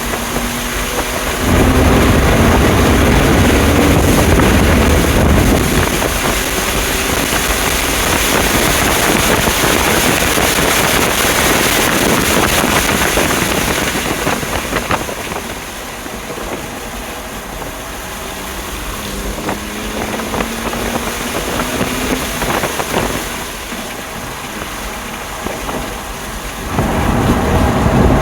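A stock 2020 BMW M2 Competition's twin-turbo straight-six driven hard on a race track, the engine note rising and falling with throttle over a heavy rush of wind and road noise. It eases off through the middle and comes back on hard near the end.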